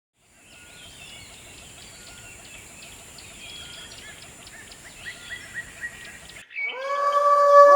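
Birds calling: many short chirps over a steady high hiss. Near the end this stops and a sustained musical tone comes in.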